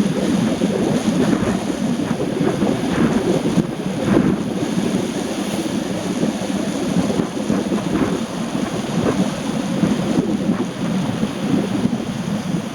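Steady rushing rumble of rain, with wind buffeting the microphone.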